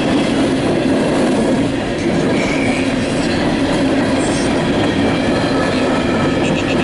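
Freight train rolling past close by, a loud steady rumble of wheels on rail with a low hum held throughout.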